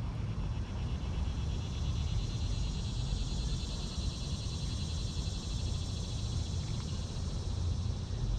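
Low, steady rumble of wind on the microphone, with a high, rapidly pulsing trill of calling animals that starts about a second in and carries on throughout.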